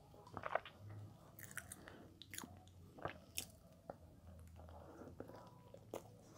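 Close-miked mouth sounds of a person biting into and chewing soft, sticky bread: irregular small clicks and smacks.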